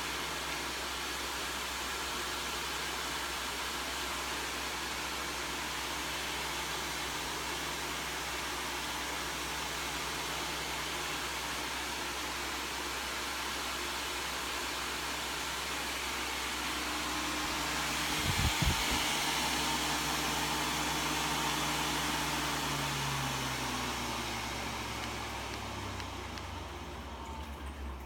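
Dyson AM05 bladeless fan heater's motor and airflow running as a steady rush of air with a low hum. About two-thirds of the way through it swells louder, with a couple of knocks. It then winds down, its hum falling in pitch as the airflow fades.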